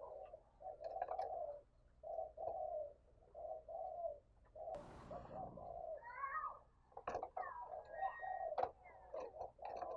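Spotted dove cooing over and over in short repeated phrases, about one a second. There is a brief rustle just before the middle, and a few higher calls after it.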